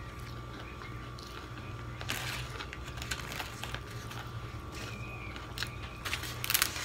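Close-up chewing of a mouthful of tuna sandwich: small wet mouth clicks scattered through. Near the end come louder clicks and rustles as a paper plate is handled and lifted.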